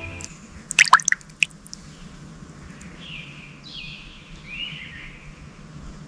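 A quick cluster of sharp taps about a second in, then a few short raspy bird calls, some falling in pitch.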